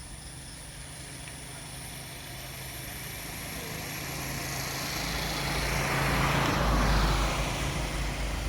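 A motor vehicle passing by: its engine and road noise grow steadily louder, peak about seven seconds in, then begin to fade.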